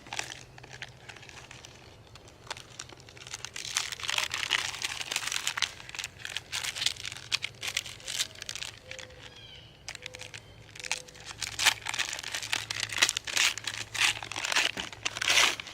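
Paper microwave popcorn bag being handled and worked open, crinkling and rustling on and off in irregular crackles.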